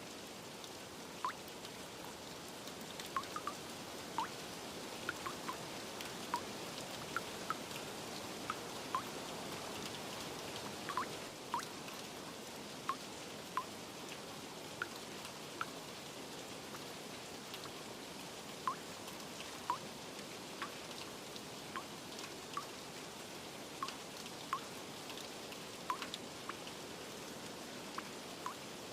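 Steady rain hissing, with single drops landing in clear, irregular plinks about once or twice a second.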